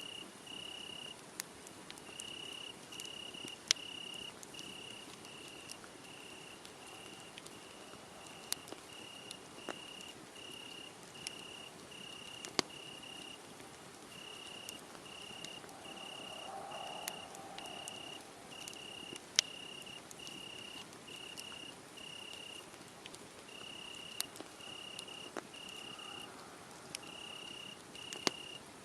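Crickets chirping in a steady, high-pitched pulse of about one and a half chirps a second, with a few short breaks. Over it, a wood fire crackles with scattered sharp pops, three of them louder than the rest.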